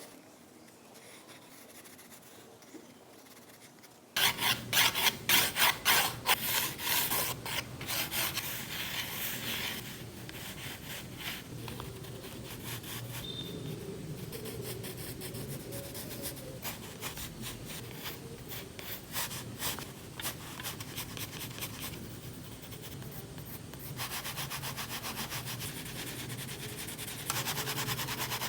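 A drawing tool rubbing and scratching on paper in quick repeated strokes, starting about four seconds in. The strokes are loudest for the first several seconds, then continue more softly.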